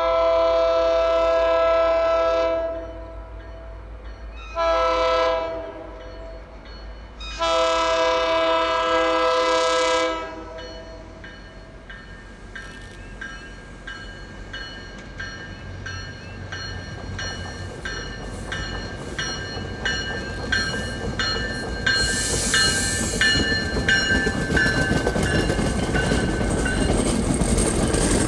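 Diesel locomotive air horn sounding a long blast, a short blast and another long blast, the pattern of a grade-crossing signal. Then the train comes by, wheels clicking over rail joints at an even rhythm and growing louder toward the end.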